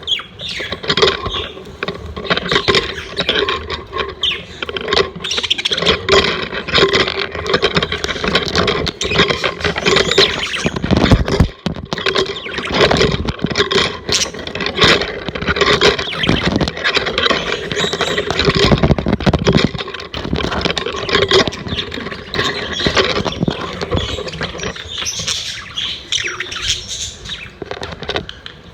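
A flock of pet budgerigars chattering continuously with overlapping chirps and scratchy squawks, and a few brief low thumps around the middle.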